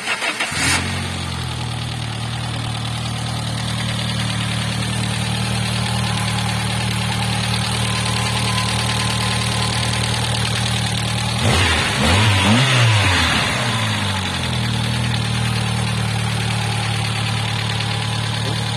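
Peugeot 405's 1.4-litre single-point-injection four-cylinder (KDX) engine catching on a cold start, then idling steadily. The revs rise and fall briefly about twelve seconds in before it settles back to idle.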